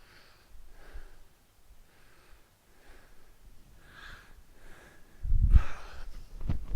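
A person breathing hard in short, regular breaths about once a second, the breathing of exertion during exercise. About five seconds in comes a loud, low thumping rumble, then a few sharp knocks.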